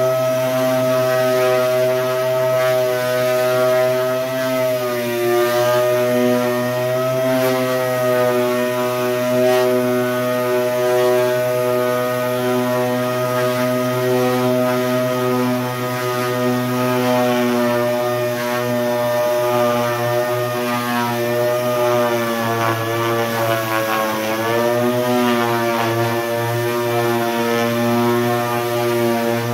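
Dual action sander running steadily against the primed steel side of a pickup bed, a continuous humming whine. Its pitch dips briefly a few times, most clearly about five seconds in and again around twenty-four seconds.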